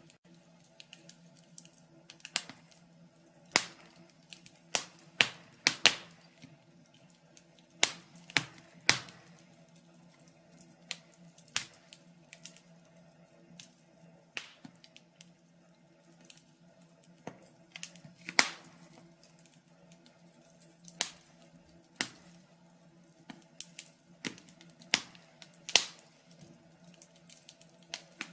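Wood fire crackling: irregular sharp pops and snaps of burning logs, roughly one a second, some much louder than others, over a faint steady hum.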